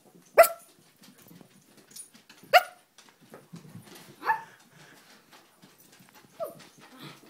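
A dog barking during play: four short, sharp barks about two seconds apart, with quieter sounds in between.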